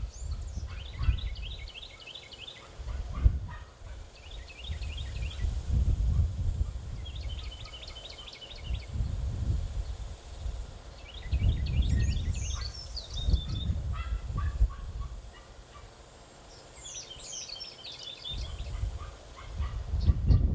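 Songbirds at a feeder calling in several bouts of rapid, high-pitched chattering trills, some with quick downward-sweeping notes. A low rumbling noise rises and falls underneath.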